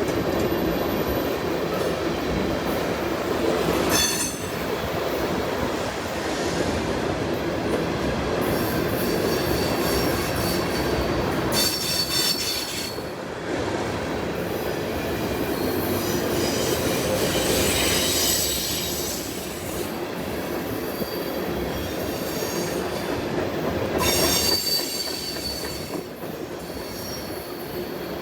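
Freight train rolling past with a steady rumble and clatter from its cars, and high-pitched wheel squeal that comes and goes several times.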